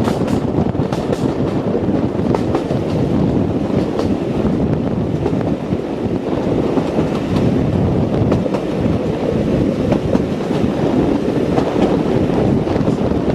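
A diesel train running on the rails: a steady, loud rumble, with wind on the microphone.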